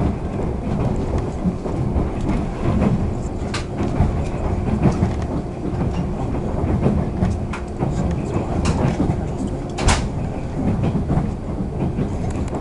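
Running noise heard inside a moving electric train car: a steady low rumble of wheels on the rails, broken by a few sharp clicks as the wheels pass rail joints, the loudest about ten seconds in.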